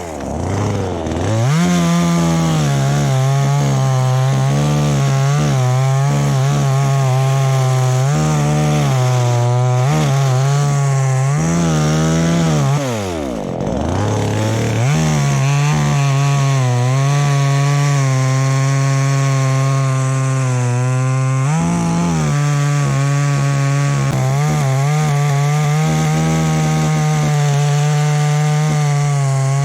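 Two-stroke chainsaw running at high revs while cutting into an anjili (wild jack) tree. The engine note sags and recovers under load. About 13 seconds in the revs drop off sharply, nearly to idle, then wind back up.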